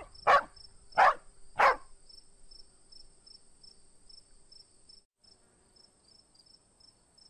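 A dog barks four times in quick succession. Then a faint background of chirping crickets continues, about three chirps a second, over a steady high whine.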